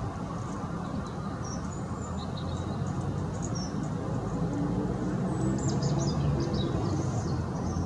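Small garden birds chirping and chattering in short, quick calls that grow busier toward the end, over a steady low hum of distant traffic.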